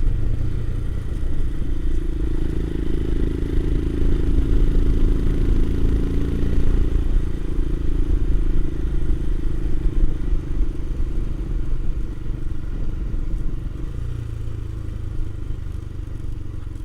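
Royal Enfield Himalayan's single-cylinder engine running as the motorcycle is ridden, with the engine note shifting slightly in pitch and easing off a little near the end.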